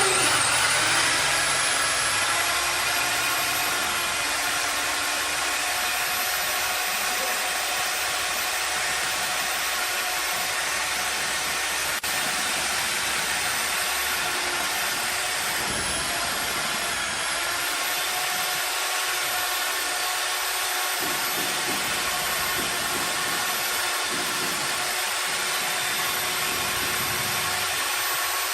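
An electric power tool's motor switching on, spinning up within about a second and then running steadily at constant speed with no change in load.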